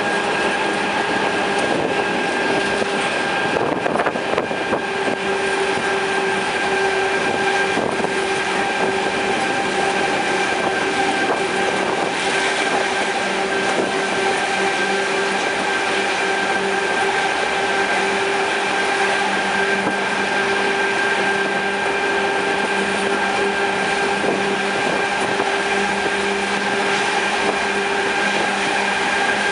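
Narrow-gauge White Pass and Yukon train running close behind its diesel-electric locomotive: a steady rush of wheel and track noise with a constant pitched hum over it.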